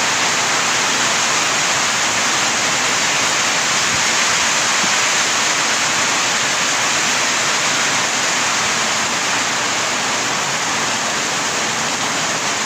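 Heavy rain pouring, a steady, dense hiss that holds even throughout.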